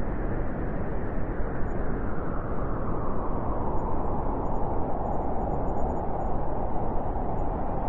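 Blizzard wind blowing steadily through a forest: an even, deep rush with no distinct gusts or breaks.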